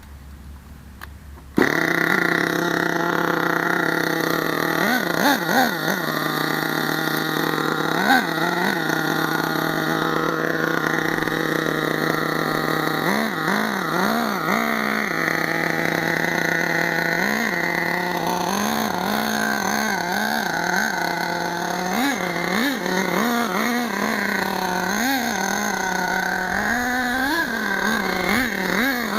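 HPI Savage RC monster truck's small nitro engine running hard with a high, buzzing note. It cuts in abruptly about a second and a half in, and its pitch swoops up and down in quick, repeated blips as the throttle opens and closes.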